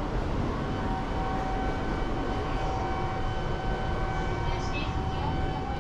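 Shinkansen train noise at a station platform: a steady rumble with a held, even mid-pitched whine.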